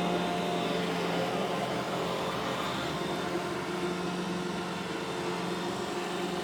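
iRobot Roomba e5 robot vacuum cleaner running, a steady motor whir with a low hum.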